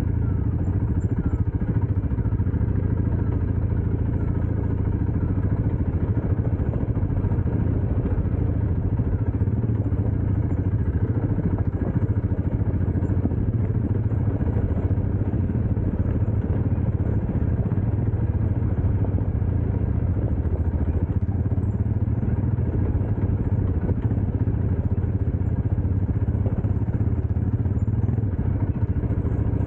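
Dirt bike engine running steadily, with no large rise or fall in revs.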